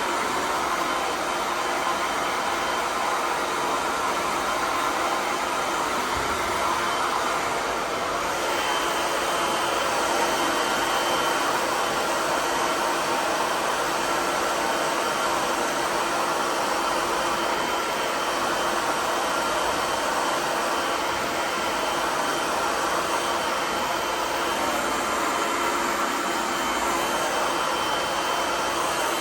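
Handheld hair dryer running steadily, a rush of air with a steady whine, drying long hair. Its sound shifts slightly about eight seconds in.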